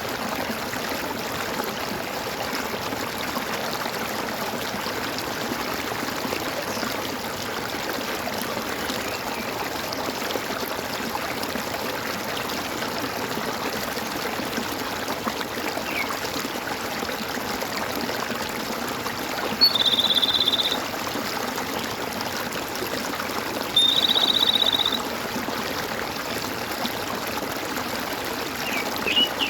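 Water running and gurgling steadily in a stream. About two-thirds of the way through come two high, buzzy trilled calls, each about a second long and a few seconds apart, and a few short chirps sound right at the end.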